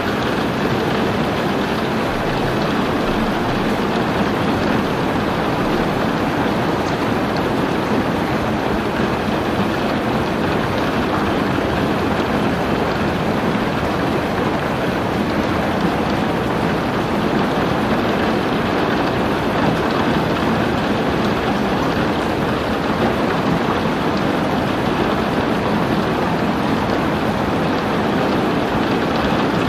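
Steady heavy rain falling: a dense, even wash of rain noise that keeps the same level throughout, with no breaks or distinct impacts.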